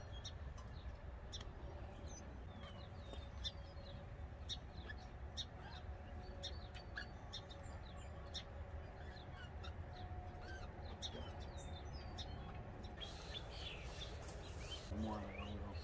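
Small songbirds chirping over and over, short quick notes scattered throughout, over a steady low background rumble.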